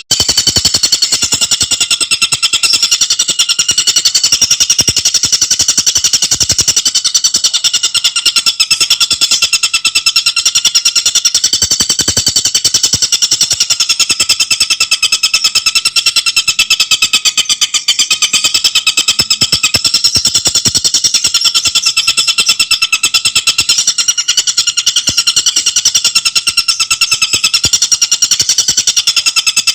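Tengkek buto bird singing a rapid, continuous rattling song: a dense run of very fast, high notes with no pauses.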